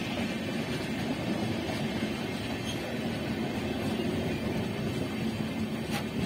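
Passenger train of LHB coaches running past close by: a steady rumble of the wheels on the rails.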